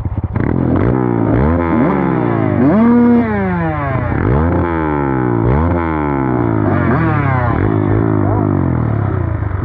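Dirt bike engine revving hard and easing off again and again, its pitch climbing and dropping some six or seven times as the throttle is worked while riding.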